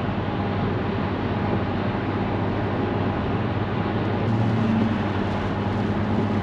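Steady engine hum and tyre noise inside the cabin of a Mercedes SLK 350 driving on a wet road. The V6's note rises slightly about four seconds in.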